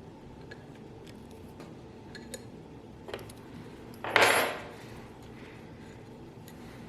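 Light clicks and knocks of tools or parts being handled, with one louder clatter about four seconds in that dies away within half a second.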